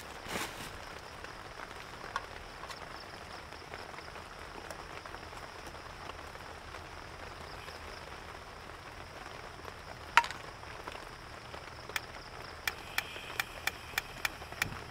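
Steady rain falling. A single sharp click about ten seconds in, then a run of about seven evenly spaced clicks near the end, roughly three a second.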